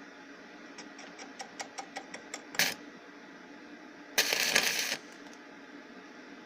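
Welding arc from a Tesla Weld 302 inverter welder being struck: a quick run of small sparking ticks, a brief crackle, then a loud crackling arc for under a second as a tack weld is laid. The arc is slow to catch, which the welder puts down to poor earthing through a rusty tabletop instead of the workpiece.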